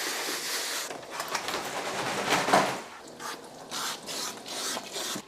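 Water spraying from a grooming sprayer onto a dog's coat during a bath: a steady hiss for about a second, then irregular spurts that cut off just before the end.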